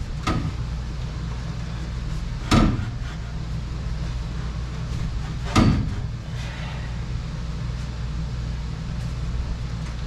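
Three sharp knocks, a few seconds apart, from exhaust pipe sections being fitted and tapped together, over a steady low hum.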